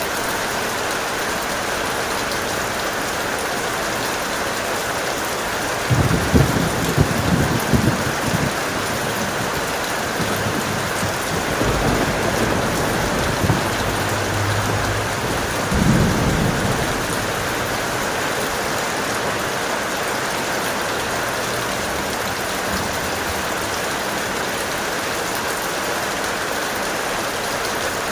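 Steady heavy rain with thunder rumbling three times: a long low roll about six seconds in, a shorter one around twelve seconds in and another about sixteen seconds in.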